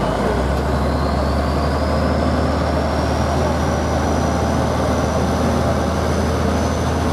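Competition truck engine running hard and steady with a deep hum. A thin high whine climbs slowly in pitch over the first few seconds, then holds.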